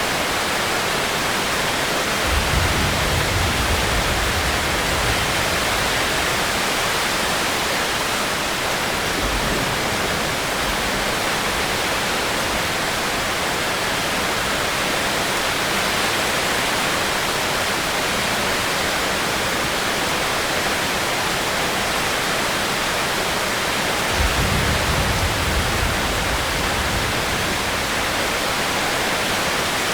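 Heavy rain falling steadily, an even hiss of water. Two brief low rumbles swell under it, one about two seconds in and one about 24 seconds in.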